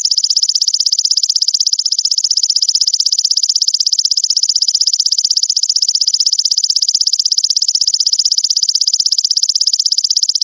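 Belalang mas grasshopper song: a fast, very even train of high buzzing pulses running without a break, in a masteran recording meant to tutor songbirds.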